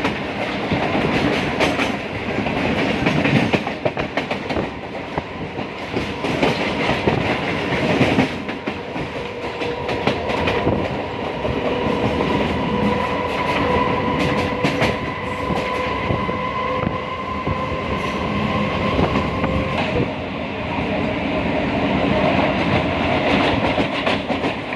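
Passenger train running along the track, with a dense rumble and the clickety-clack of wheels over rail joints. A third of the way in a steady high whine joins the rumble and stops about four-fifths of the way through.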